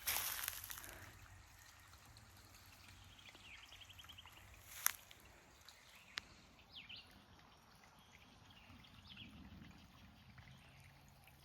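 Creek water trickling faintly, a little louder in the first second. Two sharp clicks break in about five and six seconds in.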